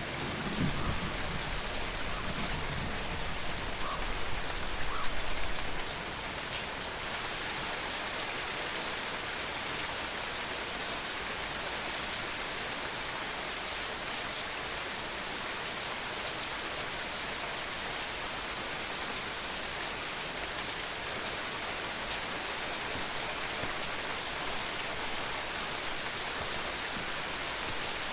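Steady rain falling, with the low rumble of thunder rolling off during the first six seconds before only the even patter of rain is left.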